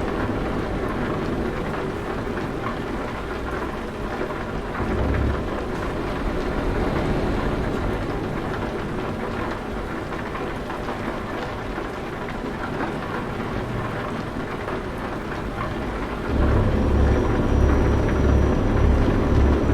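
Truck engine's low drone under a steady hiss like heavy rain. The drone and the overall level step up about sixteen seconds in.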